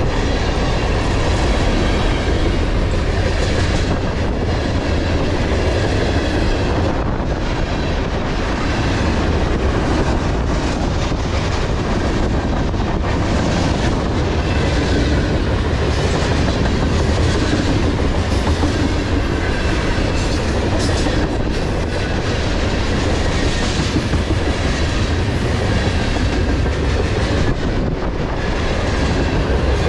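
Steel-wheeled freight cars of a long mixed manifest train rolling past at about 37 mph, wheels clattering steadily over the rail.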